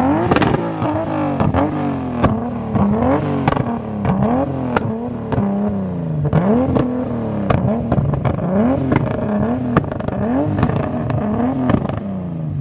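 A car engine being revved over and over, its pitch climbing and dropping back about once a second, with sharp exhaust pops and crackles between the revs.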